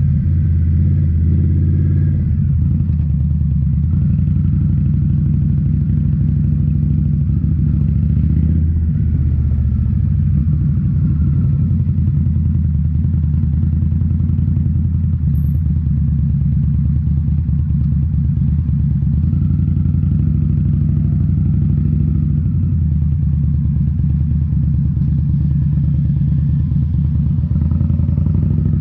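2018 Indian Scout Bobber's liquid-cooled V-twin running through Rinehart slip-on mufflers while riding, mostly at steady revs, with the pitch shifting about two seconds in and again around nine seconds in as the revs change.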